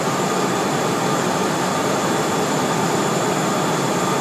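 Steady cockpit noise of a Cessna Citation Mustang in flight: its twin Pratt & Whitney PW615F turbofans and the rush of air over the cabin, with a faint steady high whine.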